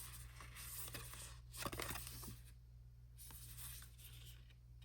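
Faint rustling of paper and plastic as album inserts and a bookmark are handled, with a few light clicks and taps, over a steady low hum.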